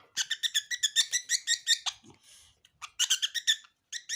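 Budgerigar giving rapid runs of short chirping calls, in two bursts with a brief pause about two seconds in.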